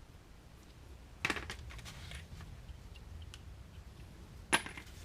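Two sharp metal clinks about three seconds apart, each with a brief ring after it: tools or loose hardware being handled.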